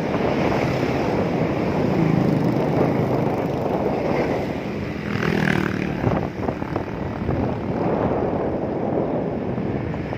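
Strong wind buffeting the microphone during a heavy rainstorm: a continuous rushing roar that swells about halfway through.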